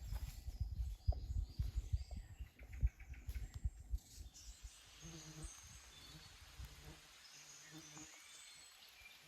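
Irregular low rumbling bumps for about four seconds, then a quieter outdoor background with faint bird calls.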